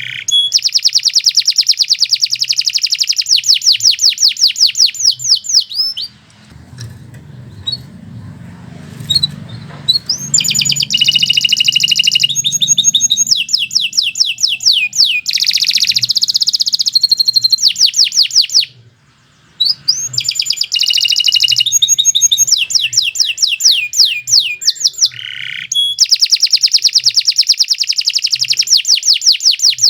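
Domestic canary singing long, fast trills: rapid runs of repeated high notes that change from one roll to the next. It breaks off for a few seconds about six seconds in, and briefly again near twenty seconds.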